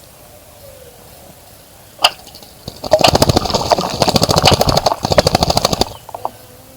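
A small bird bathing: one sharp splash about two seconds in, then a fast run of wing-beat splashes in shallow water lasting about three seconds.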